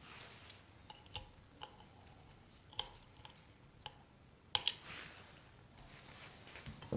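Scattered small, faint clicks and taps, like small hard parts being handled, with a sharp double click about four and a half seconds in.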